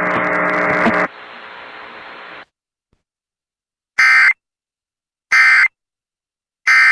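Weather radio broadcast hiss for about two and a half seconds, then, after a pause, three short identical electronic data bursts about a second and a half apart: the EAS end-of-message tones that close the warning.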